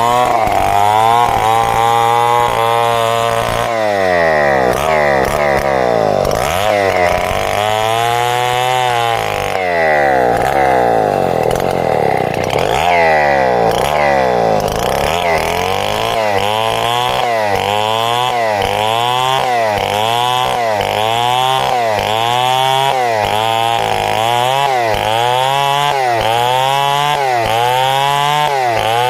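Two-stroke chainsaw ripping a log lengthwise into boards, its engine pitch dipping and recovering over and over as it bites into the wood. From about halfway the rise and fall settles into an even cycle of about once a second.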